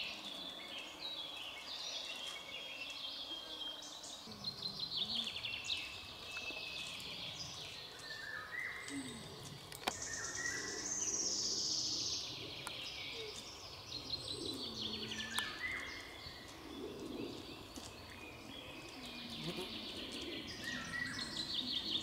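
Songbirds singing: many short repeated trills and chirps over faint, steady background noise.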